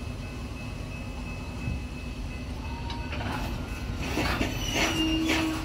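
Coal train hopper cars rolling past on steel wheels with a steady rumble. From about halfway through, wheel clicks come a few times a second and grow louder, and a steady low tone joins near the end.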